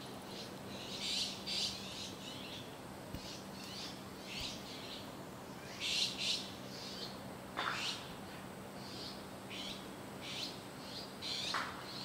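Wild birds calling: a run of short, high chirps in small clusters, with one call about three quarters of the way through that sweeps sharply down in pitch.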